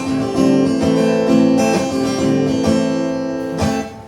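Acoustic guitar strumming chords in a live blues song, an instrumental stretch between sung lines, with a short dip in level just before the end.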